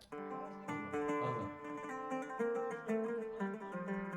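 Plucked string instrument playing a melodic run of single picked notes, starting suddenly after a brief lull and carrying on at several notes a second.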